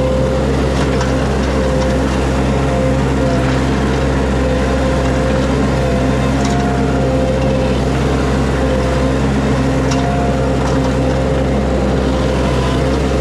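Mini skid steer's engine running steadily at a constant speed, with a few faint clicks over it.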